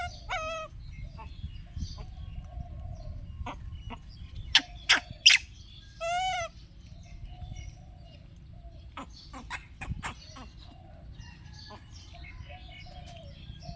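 An animal's short high calls, including two longer wavering ones near the start and about six seconds in, among scattered sharp knocks and clicks, over a steady low hum.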